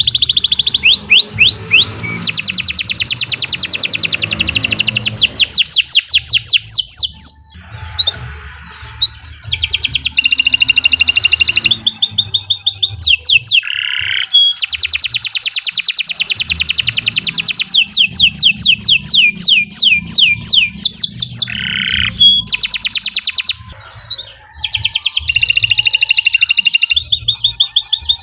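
Domestic canary singing a long song of fast rolling trills and repeated chirping phrases, with two brief pauses, about 7 and 23 seconds in.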